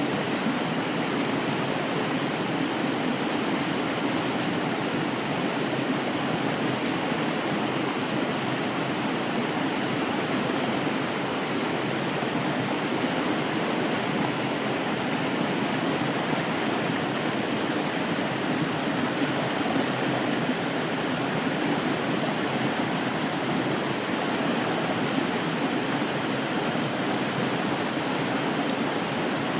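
Steady rushing of a river, an even wash of flowing water with no breaks.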